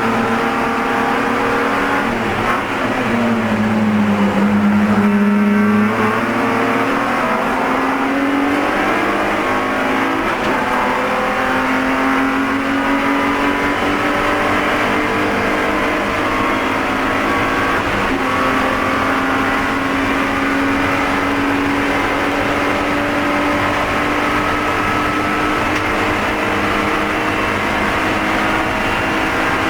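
Spec E46 BMW race car's straight-six engine running hard on board, its pitch dipping a few seconds in as the car slows, then climbing steadily again under acceleration.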